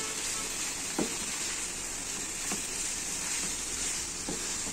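Chicken strips in a thick tomato masala sizzling steadily in a nonstick frying pan, stirred with a plastic spatula that scrapes lightly across the pan a few times.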